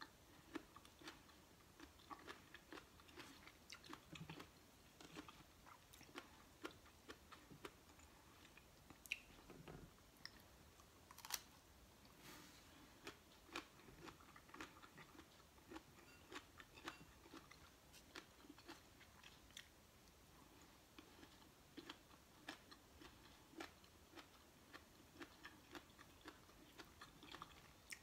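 A person chewing and crunching raw vegetables and fruit: a quiet, irregular run of small crisp crunches and wet mouth sounds, one after another.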